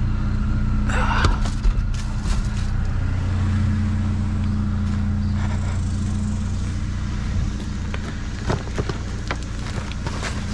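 Truck engine running steadily, with a few light clicks and knocks on top.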